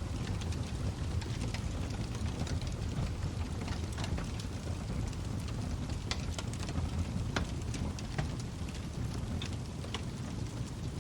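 Log fire burning: a steady low rumble with frequent irregular crackles and pops.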